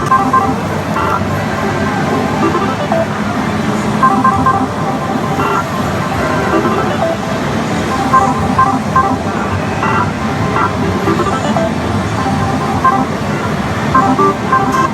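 Continuous din of a pachislot parlour: many slot machines' electronic jingles and music blended into a loud, steady roar, with short beeps and tones sounding over it now and then.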